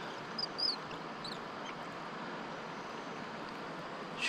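A bird giving a few short high chirps about half a second and a second and a half in, over a steady outdoor hiss.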